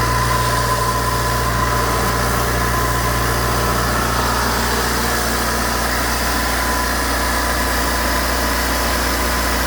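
Diesel engine of a high-pressure sewer and pipe-cleaning jetter running steadily, a continuous low drone with a faint high tone over it.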